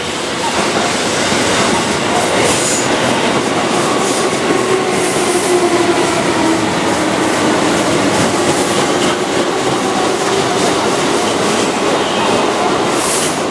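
A Keihan 1000-series electric commuter train runs past at close range. Its wheels rumble steadily, with a few sharp clacks over the rail joints and points.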